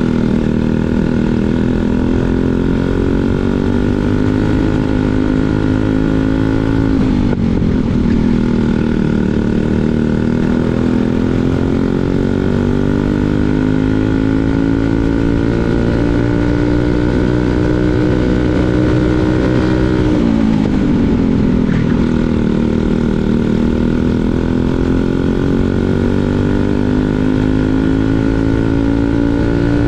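Briggs & Stratton 206 Super Stock single-cylinder four-stroke kart engine running flat out on track. Its pitch climbs slowly along the straights, drops sharply twice (about 7 and 20 seconds in) as the throttle is lifted for corners, then pulls back up.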